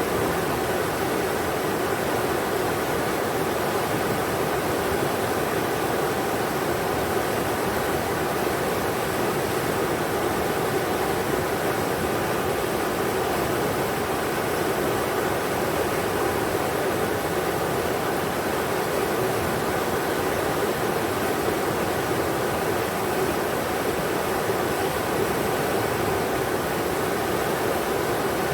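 Englishman River rushing steadily over rocks, an even, unbroken wash of water noise.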